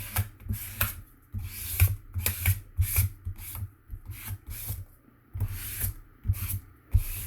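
Hands pressing and rubbing glued cardstock onto a cardboard cracker box: irregular paper rustles and scrapes with soft knocks.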